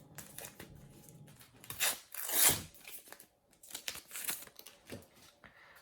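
A sticker packet being torn open and its wrapper crinkled, with the loudest rip about two seconds in and smaller crackling after it.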